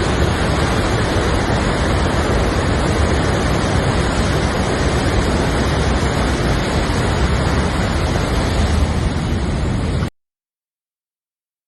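Floodwater rushing steadily. The sound cuts off abruptly about ten seconds in, leaving silence.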